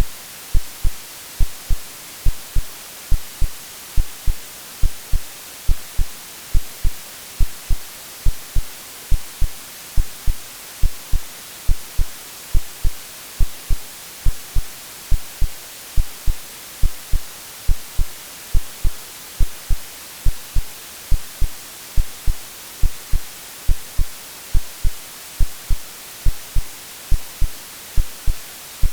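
Synthetic heartbeat of low double thumps (lub-dub), beating steadily a little faster than once a second, over continuous white noise hiss. It is a womb-like soothing sound meant to settle a baby to sleep.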